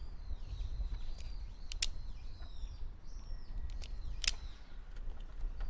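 A handheld wire stripper clicking as it cuts and pulls the insulation off a wire: a few sharp snaps, the loudest about two seconds and four seconds in. Birds chirp in the background.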